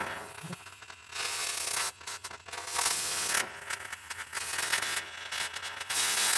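Metal being cut or ground on a vehicle frame as a cross member is freed: three bursts of harsh, high noise, each a second or less, with quieter rough scraping between them.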